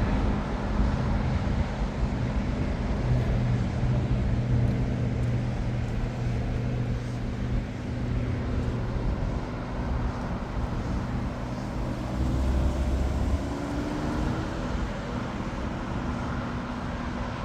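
Airport ambience: a steady low engine rumble from aircraft and road traffic, with a few held droning tones. A faint engine whine rises in pitch about twelve seconds in.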